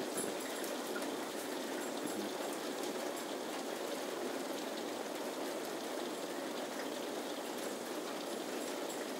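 Heavy rain falling steadily, an even hiss with a few faint drip ticks, during a thunderstorm.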